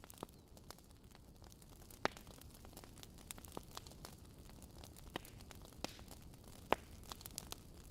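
Wood fire crackling: irregular sharp pops and snaps over a low, steady rumble, with a couple of louder pops, one about two seconds in and one near seven seconds.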